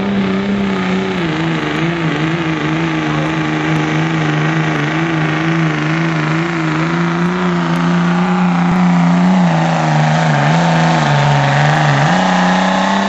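Ford diesel pickup truck's engine held at high revs under heavy load as it drags a weight sled down the pull track. The pitch holds steady with small wavers, sags a little late on as the load builds, then picks up again just before the end.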